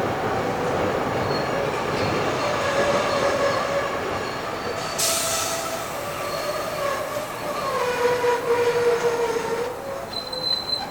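Steel wheels of a train hauled by steam locomotive 3801 squealing against the rails, with several wavering tones sliding up and down over the running noise. A brief hiss comes about five seconds in.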